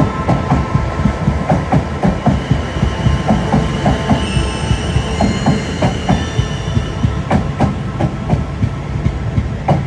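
South Western Railway Class 450 electric multiple unit running along the platform: a low rumble with wheels clattering over rail joints, several knocks a second.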